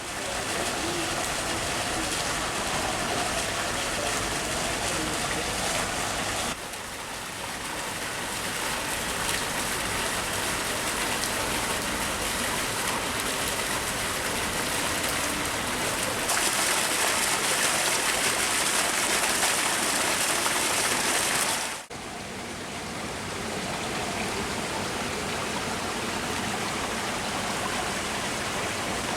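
Rushing water from rain-swollen streams and waterfalls, a steady loud roar that shifts abruptly a few times, with a brief drop about 22 seconds in.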